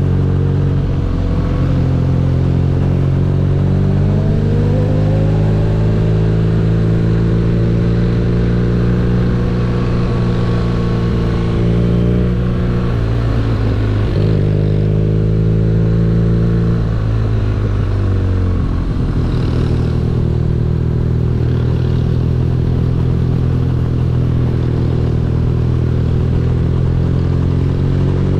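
BMW R nineT's boxer-twin engine running under way. Its pitch rises as it accelerates about four seconds in, drops briefly twice in the middle, and then holds steady.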